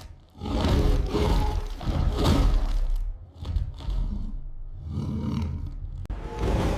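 Big-cat roaring and growling in long, rough bursts with a deep rumble underneath, broken by short pauses.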